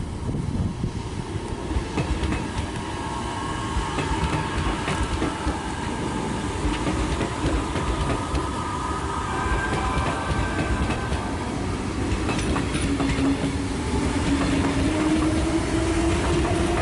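Sydney Tangara electric suburban train passing through the station, a steady low rumble with repeated wheel clicks over rail joints and faint tones that drift in pitch, growing slowly louder throughout.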